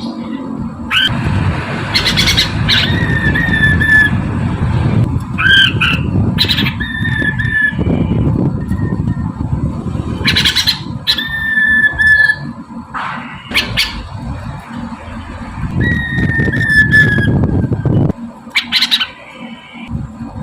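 Mandarin poksay (a laughingthrush) singing: several drawn-out clear whistles that slide slightly down in pitch, between short sharp calls, over a loud, rough low noise that eases near the end.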